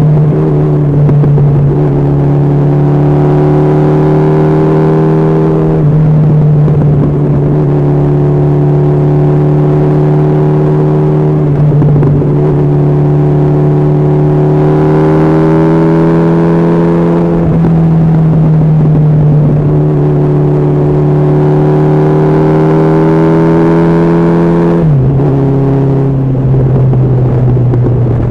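Honda CB1300SF inline-four engine running steadily at highway cruising speed under the rider, with wind rush. Its pitch holds with small rises, then drops noticeably about 25 seconds in as the rider eases off.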